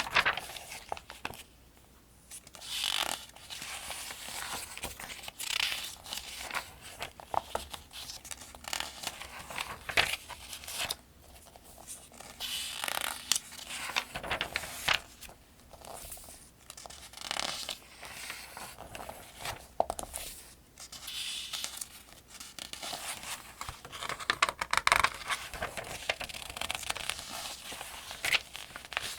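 Pages of a paperback almanac being turned one after another, each turn a papery swish and crackle, at a fairly even pace of one every couple of seconds.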